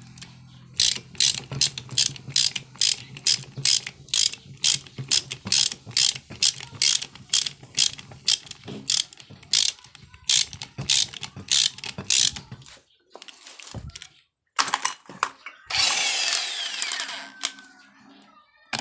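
Ratchet clicking steadily, about two and a half clicks a second, over a low hum, as a fastener on the motorcycle engine is turned. The clicking stops near the end and a short clatter of handled parts follows.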